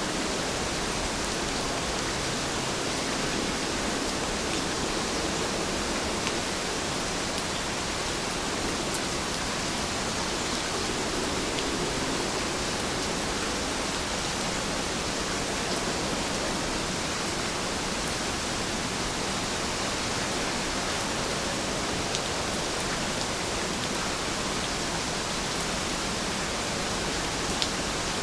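Heavy rain falling steadily: a dense, even hiss with no let-up, and a few faint sharper ticks of individual drops.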